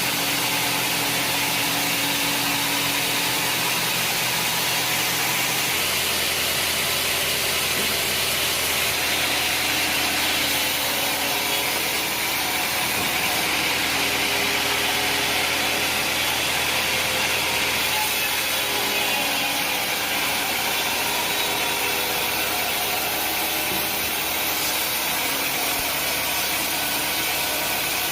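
Sawmill saw running steadily through a mahogany log, with its drive engine humming underneath the hiss of the cut.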